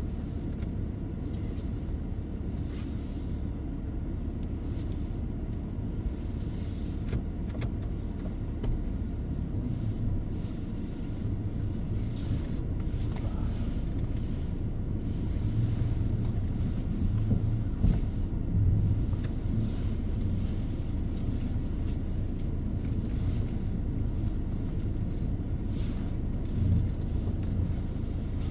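Car running, heard as a steady low rumble that grows a little louder past the middle.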